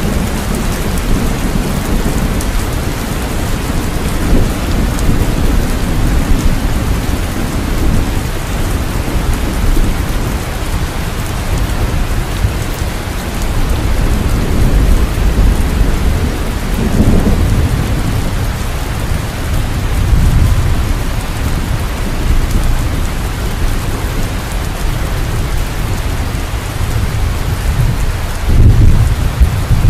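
Steady rain falling, with low rolling thunder rumbling under it that swells several times, loudest near the end.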